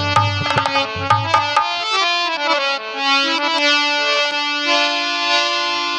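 Instrumental break of a Bundelkhandi Rai folk song: a harmonium plays a stepping melody with long held notes. A quick run of drum strokes comes in the first second and a half, with a few more strokes later.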